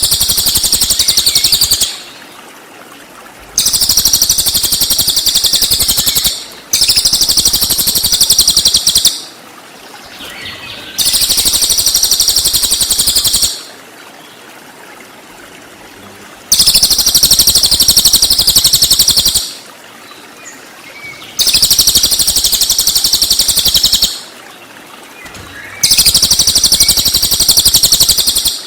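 Cililin songbird singing its 'tembakan' song: loud, high-pitched bursts of rapid trilled notes, each lasting two to four seconds, repeated about seven times with short pauses between.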